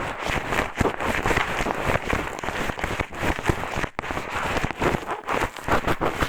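Eyeglasses used as an ear pick, scraping and rubbing in the ear of a binaural microphone in rapid, irregular scratching strokes.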